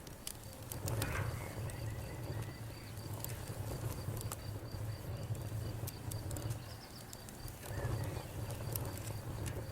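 Wood campfire burning: irregular sharp crackles and pops over a low, steady rumble of the flames, with a steady high trill behind it.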